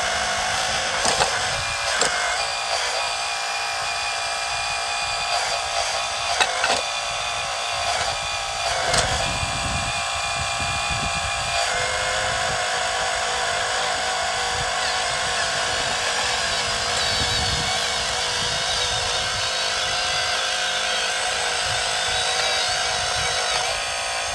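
1/12-scale RC4WD Earth Digger 4200XL hydraulic excavator running, its hydraulic pump and motors giving a steady, many-toned whine. A few sharp clicks and knocks sound in the first several seconds, and the whine changes pitch about halfway through.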